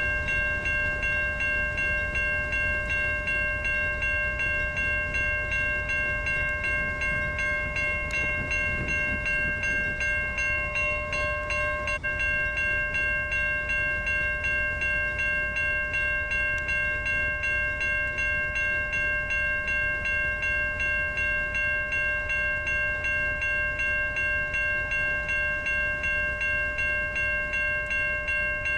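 Railroad grade crossing bell ringing in rapid, even strokes, over the low rumble of a passing Norfolk Southern train.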